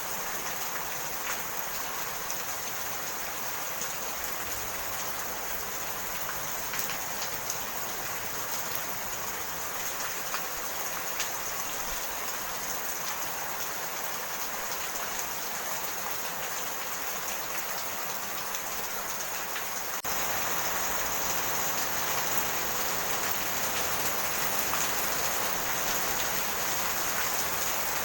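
Steady rain falling, an even hiss with scattered small drop ticks, growing a little louder about twenty seconds in.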